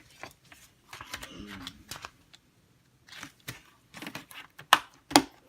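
Plastic Blu-ray keep case being handled: scattered clicks and rustling, then two sharp snaps near the end.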